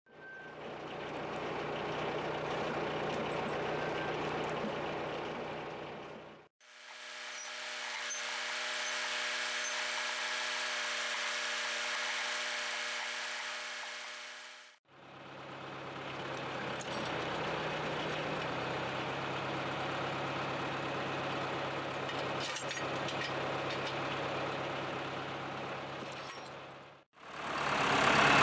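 John Deere 2750 farm tractor's diesel engine running steadily, heard in separately edited stretches that each fade in and out. The middle stretch is a higher, steadier hum with no low rumble.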